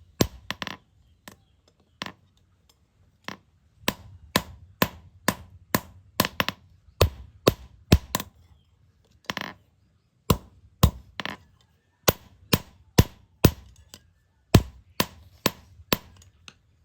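Hammer blows on steel: a run of sharp strikes, about two to three a second with short pauses, a few of them ringing briefly.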